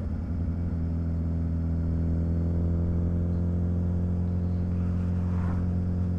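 Suzuki Hayabusa's inline-four engine running at a steady, even note while the motorcycle rolls along at low speed.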